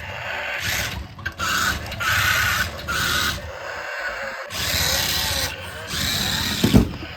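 Toy RC car's small electric drive motor whirring in about six short bursts, some with a high whine, as the throttle is pulsed. A short thump near the end.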